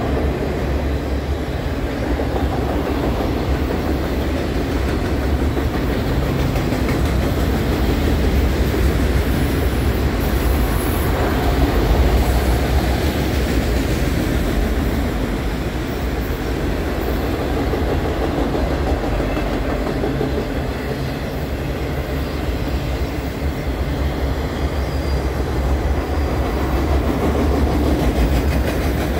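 Freight train of enclosed autorack cars rolling past at trackside: steady noise of steel wheels on the rails, heaviest in the low end.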